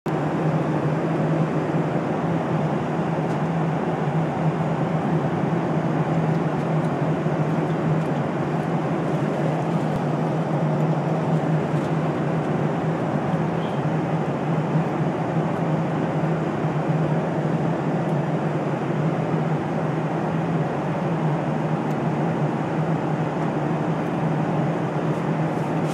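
Steady drone of engine and air noise inside a passenger airliner's cabin, with a constant low hum underneath.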